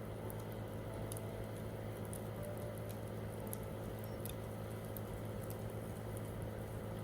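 Campfire wood crackling, with scattered small sharp pops over a steady low rumble.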